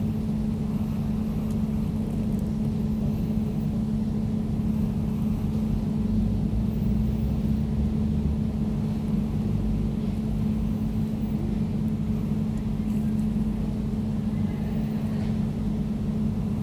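Air conditioner running with a steady low hum and a constant droning tone.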